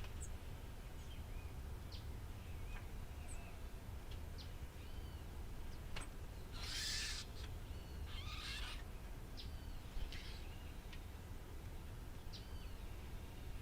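Countryside birds calling: scattered short chirps and little arched whistled notes, with two harsh rasping calls about seven and eight and a half seconds in, over a steady low rumble.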